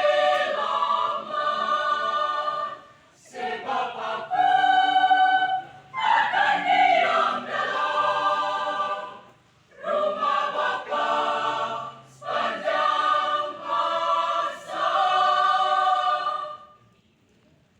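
A school choir singing a church choral piece in several-part harmony, in phrases broken by short breaths. The last phrase ends about 17 seconds in.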